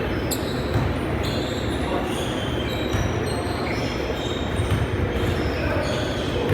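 Basketball game sounds: sneakers squeaking repeatedly on the court and a ball bouncing, over a steady din of the gym.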